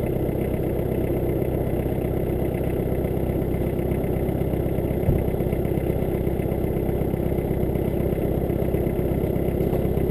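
VW Caddy Mk1's 1.6 diesel engine idling steadily and evenly while still cold, after standing unused for months. There is one short knock about halfway through.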